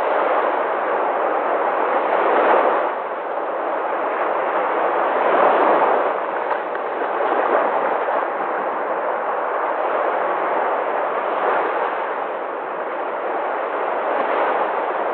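Sea waves breaking on the shore: a continuous rush of surf that swells and eases every few seconds.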